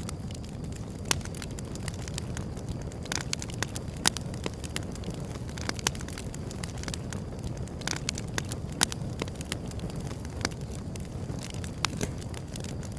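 Wood fire burning with a steady low rumble and frequent sharp crackles and pops at irregular intervals, a few louder snaps standing out.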